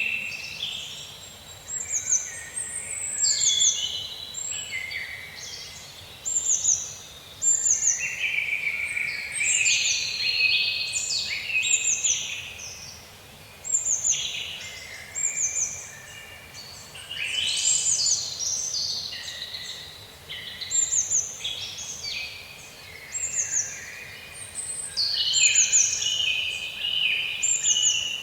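Songbirds chirping and singing, several voices overlapping, with a short high note that slides downward repeating every second or two.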